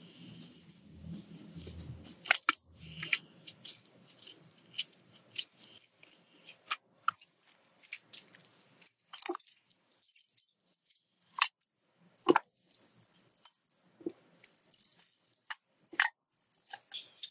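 Close-miked chewing and biting of food, with wet mouth sounds and irregular sharp crunchy clicks.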